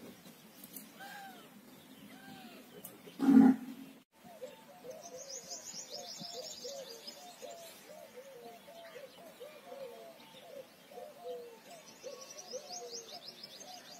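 Birds calling, a quick run of short chirps several times a second, twice joined by a high, fast trill. Early on a single brief loud thud stands out above them.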